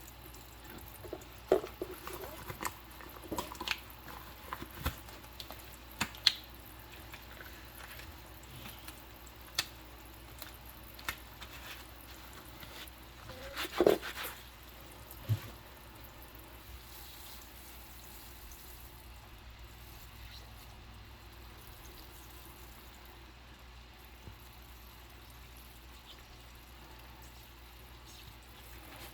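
Rubber-gloved hands washing dishes in a sink: wet squishes and drips with scattered sharp clicks and knocks of dishware, the loudest cluster about halfway through. After that it settles to a faint steady hiss with only an occasional small tap.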